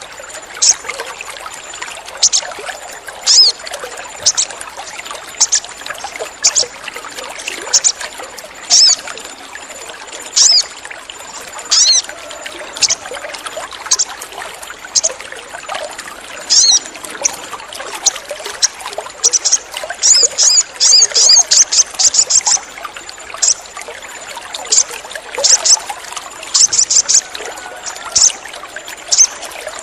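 Sogon bird calling: short, sharp, high-pitched chirps repeated about once a second, with a quick rattling run of chirps about twenty seconds in. Behind them runs a steady trickle of water.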